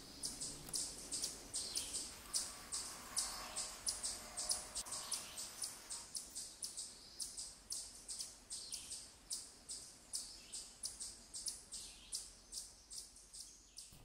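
Woodland songbirds chirping: a rapid run of short, high chirps, about three a second, with some notes sliding down.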